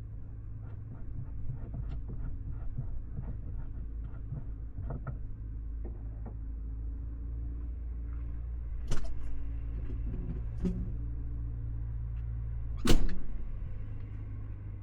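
Truck engine idling with a steady low hum, with small clicks and knocks over it, and three sharp bangs about 9, 11 and 13 seconds in, the last the loudest.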